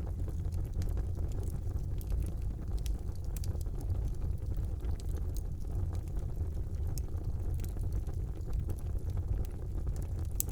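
Wood fire burning in a fireplace: a steady low rumble of the flames, with scattered small crackles and pops throughout.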